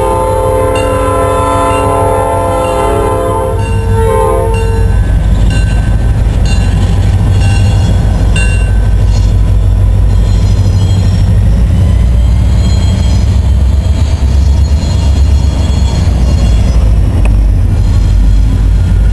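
Norfolk Southern freight train's horn sounding a multi-tone chord, cutting off about four and a half seconds in, followed by the deep rumble of its high-hood EMD SD40 diesel locomotives passing close by.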